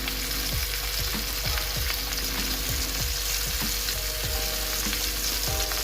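Beef burger patty sizzling steadily as it fries in a pan.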